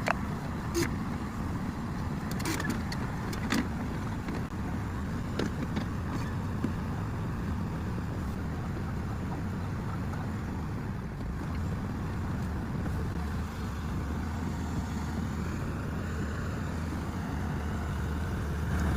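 Tata Hitachi 210 excavator's diesel engine running steadily, with a few sharp metallic knocks in the first seven seconds.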